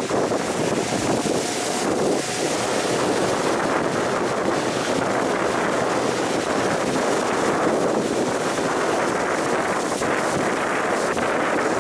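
Wind buffeting the microphone on a fast-moving motorboat, with a steady rush of water and engine noise beneath it.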